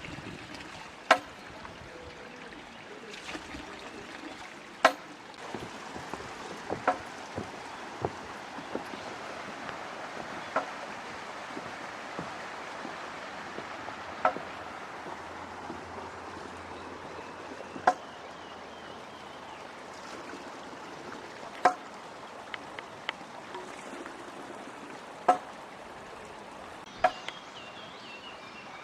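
Small shallow stream babbling steadily over stones, with sharp clicks or plops every few seconds.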